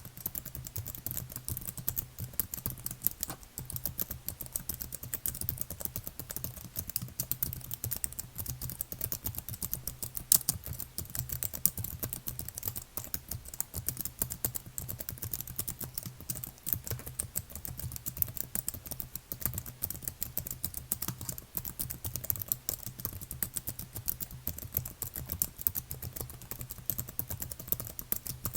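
Continuous fast typing on a computer keyboard: a dense, even patter of key clicks with no pauses, over a faint steady low hum.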